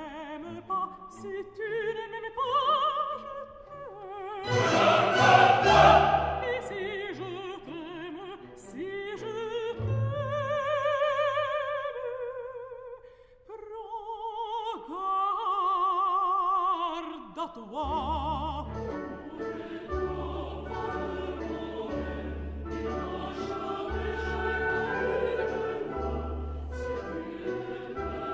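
Operatic solo singing with a wide vibrato over an orchestra, loudest a few seconds in, with the voice's long held notes ending about two-thirds of the way through. After that the orchestra plays on with an evenly pulsing bass line.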